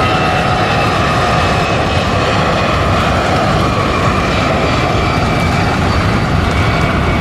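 Jet airliner's engines running at high power during takeoff: a loud, steady rush with faint whining tones above it.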